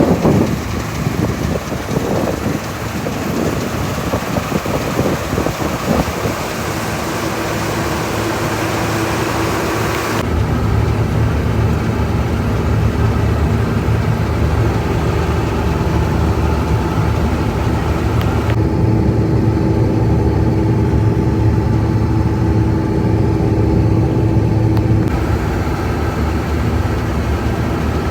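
Harvest machinery engine running steadily, heard from inside the cab. About ten seconds in, a rougher mix of machine and wind noise cuts abruptly to a smoother, even engine hum with a steady tone.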